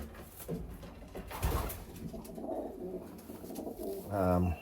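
Racing pigeons cooing in a loft, a low steady murmur of calls throughout, with a soft low thump about a second and a half in.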